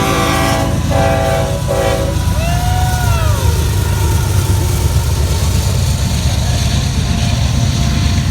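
Union Pacific freight locomotive's multi-note air horn sounding a long blast, a brief break and a second blast that ends about two seconds in, then the steady heavy rumble of the locomotive and train rolling past.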